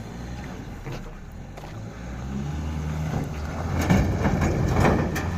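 SAIC Maxus pickup truck's engine running under heavy load on a steep climb, a steady low drone that grows louder from about two seconds in, with a rougher rush of noise near the end.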